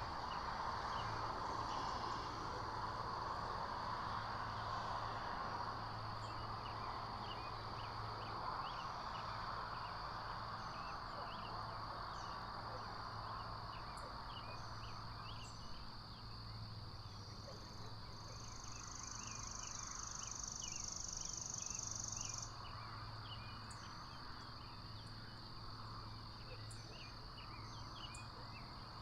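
Outdoor ambience of small birds chirping in a steady scatter of short high calls over a continuous high tone and a soft hiss. A higher buzz, typical of an insect, joins about two-thirds of the way in and cuts off suddenly.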